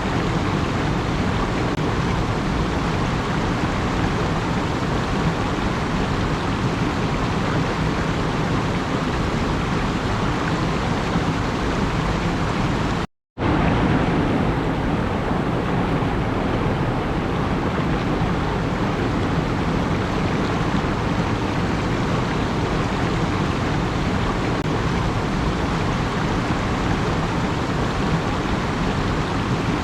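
Steady, even rushing noise with no pitch or rhythm in it. It cuts out to silence for about half a second roughly thirteen seconds in, then resumes unchanged.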